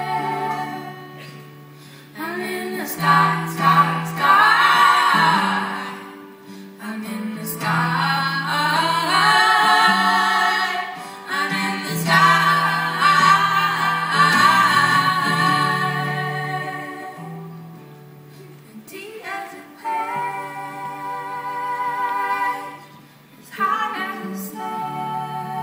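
Live music: several women's voices singing together in phrases of a few seconds, over steady low held notes.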